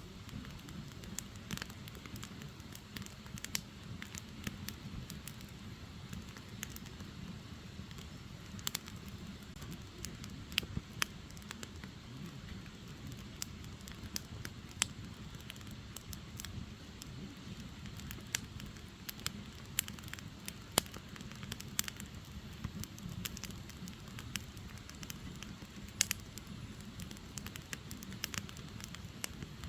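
Wood fire burning: firewood giving irregular sharp pops and crackles, a few louder than the rest, over a low steady rumble of flames.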